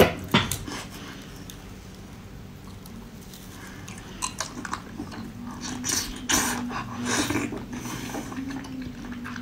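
Close-miked biting and chewing of a spicy-coated sea cucumber: a few sharp clicks at first, then irregular wet chewing sounds from about four seconds in, with a low steady hum over the last few seconds.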